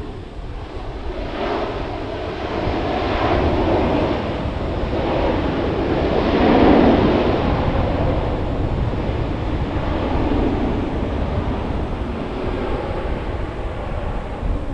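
Boeing 767-300 airliner landing: a steady low rumble under a rushing noise that swells to its loudest about halfway through, then eases off.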